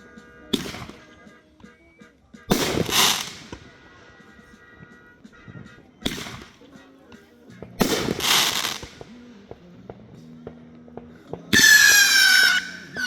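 Backyard consumer fireworks going off. There is a sharp bang about half a second in and another about six seconds in, and two noisy bursts lasting about a second each, one after about two and a half seconds and one after about eight. Near the end a whistling firework lets out a loud, shrill, wavering whistle.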